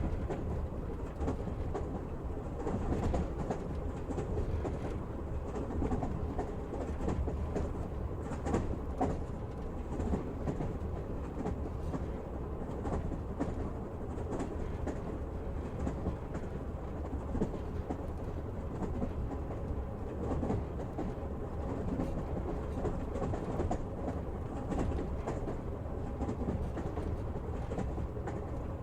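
Passenger train carriage running on rails: a steady rumble with wheels clicking over rail joints now and then, heard from inside the carriage.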